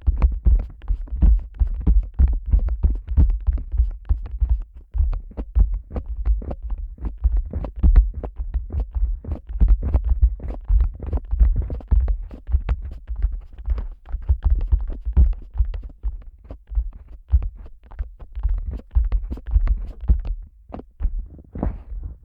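Fingers gently squeezing and tapping on the ear of a Neumann KU100 dummy head microphone: quick soft taps, several a second, each with a deep, muffled thump.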